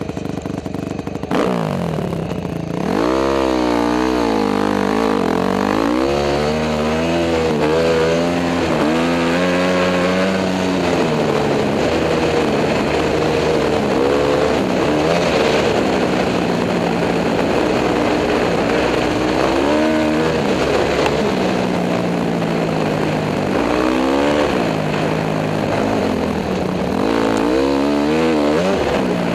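Honda CRF250 dirt bike's single-cylinder four-stroke engine under way, its pitch climbing and dropping again and again as the throttle is opened and shut and the gears change.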